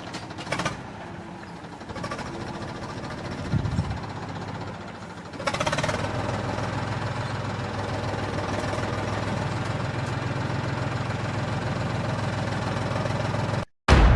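Motor of a miniature model bulldozer running steadily, getting louder about five and a half seconds in, then cutting off abruptly near the end.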